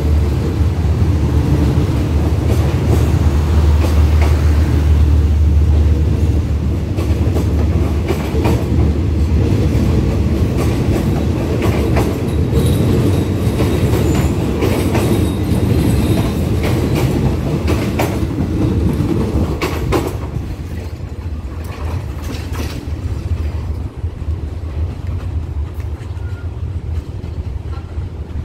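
Passenger coaches of a departing train rolling past, wheels clacking over rail joints over a low rumble. The sound drops about twenty seconds in as the train pulls away.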